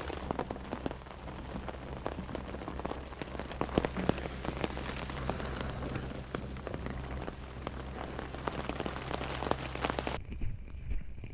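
Rain falling steadily, with many separate drops ticking sharply on nearby surfaces. About ten seconds in the sound changes abruptly and becomes duller.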